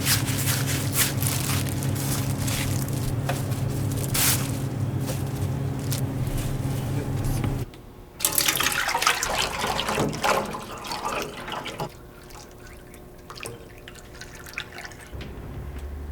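Liquid crackling and dripping over a steady low machine hum. The hum cuts off abruptly about halfway through, leaving irregular crackling and splashing that becomes quieter.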